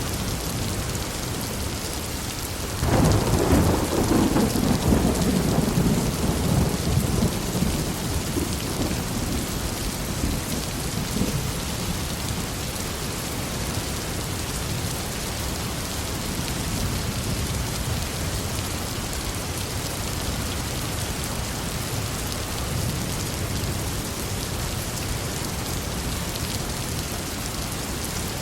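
Steady heavy rain falling, with a clap of thunder about three seconds in that breaks suddenly and rumbles away over several seconds.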